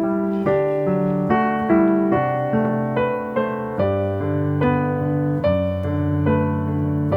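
Background piano music: a gentle melody of sustained notes struck about every half second over held bass notes.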